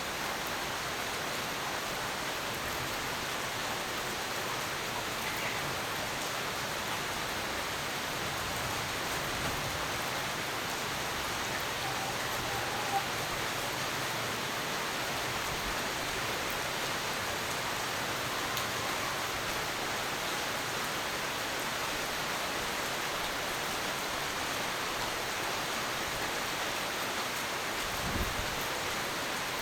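Steady rain falling, an even hiss without a break, with a brief low thump near the end.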